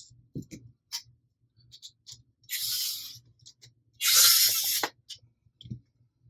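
Hands working blaster parts and screws during assembly: scattered small clicks and taps, and two short rasping noises, the second one, about four seconds in, the loudest.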